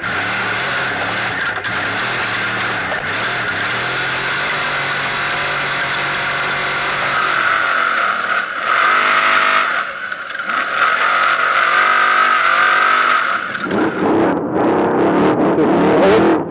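Off-road trophy truck's race engine running hard, revving up and down as it is driven at speed, under steady wind and road noise.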